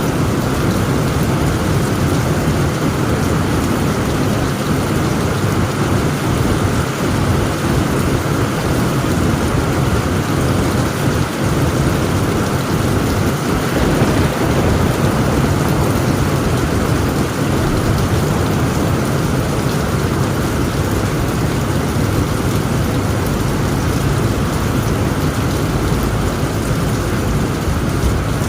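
Heavy rain pouring steadily on a tent roof, with a low rumble of thunder underneath.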